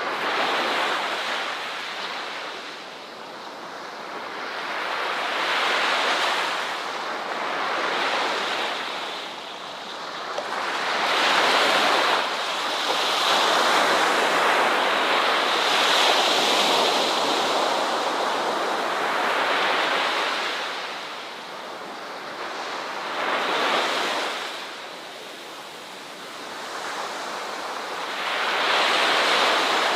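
Ocean waves breaking on a shore, the surf swelling and receding every few seconds in a slow, irregular rhythm, with a steady wash of surf between breaks.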